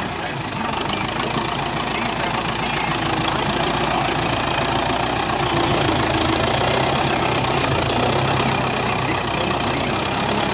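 Tractor diesel engine running steadily, its pitch rising a little in the second half.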